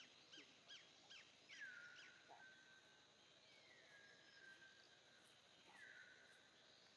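Faint high-pitched animal calls: a quick run of short repeated chirps, then three longer calls that slide down in pitch and hold, over quiet outdoor background.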